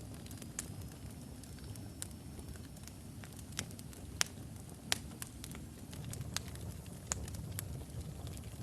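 Wood fire of burning logs crackling, with irregular sharp pops over a steady low rush of flame; two louder pops come a little after four seconds and near five seconds. A faint thin whistle rises slowly over the first few seconds.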